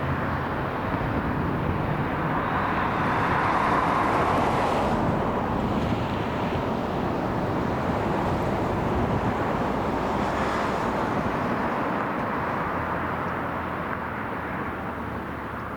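Amtrak San Joaquins passenger train passing at speed: a steady rushing rumble of wheels on rail and train noise, loudest about four seconds in, then slowly fading near the end as it draws away.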